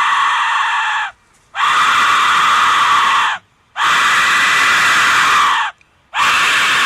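Aztec death whistle blown in long, shrill, scream-like blasts, each about two seconds, with short pauses between them.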